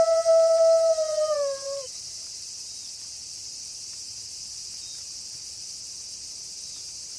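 A wolf's long howl held on one pitch, bending down and ending about two seconds in. After it, a steady high chirring hiss of night insects.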